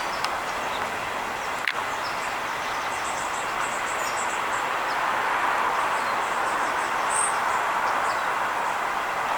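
Steady outdoor hum of distant traffic that swells a little in the middle, with faint high bird chirps and a single click about two seconds in.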